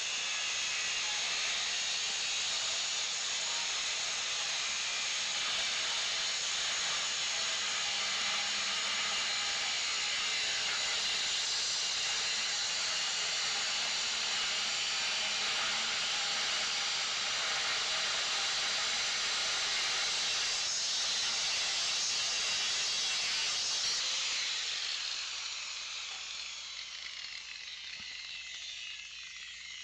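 Plasma cutter cutting steel plate: a steady hiss of the arc and air that fades away over the last few seconds.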